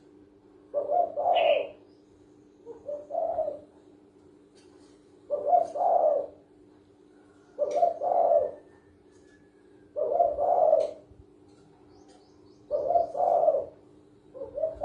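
Spotted dove (cu gáy) cooing in repeated two-part phrases, about six of them, one every two to two and a half seconds, over a steady low hum. Faint high chirps come between the phrases.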